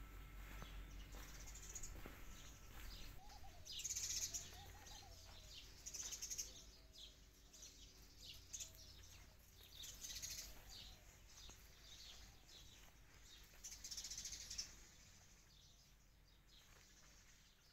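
Faint birds chirping outdoors, short high calls coming every couple of seconds, over a low steady hum.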